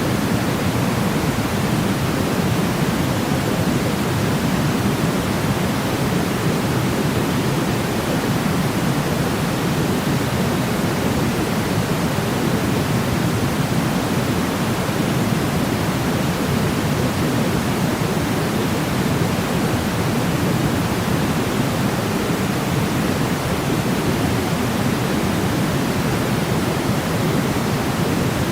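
Steady, unbroken noise of the white-noise kind made for baby sleep, deep and even, weighted toward the low end like pink noise, with no change in level.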